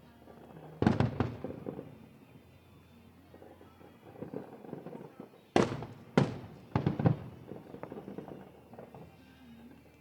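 Aerial fireworks shells bursting: two loud reports about a second in, a louder pair around five and a half and six seconds, then a quick cluster of bangs with crackle and rumble between them.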